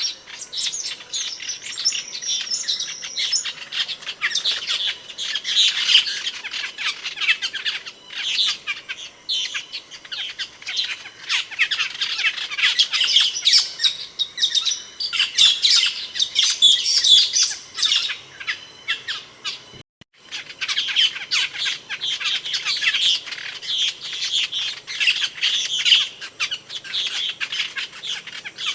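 Asian glossy starling giving a dense, unbroken run of high chirps, squeaky whistles and squawks. The sound cuts out for a moment about two-thirds of the way through, then resumes.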